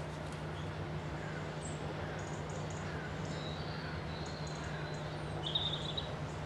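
Wild birds chirping and whistling in short, high calls, with a brighter burst of chirps about five and a half seconds in, over a steady low hum.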